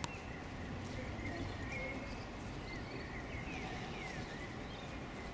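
Small birds chirping, short high calls scattered through, over a steady low background hum.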